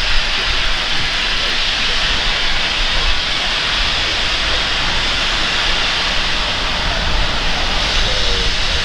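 Steam locomotive hissing steadily, a loud even rush of escaping steam over a low rumble.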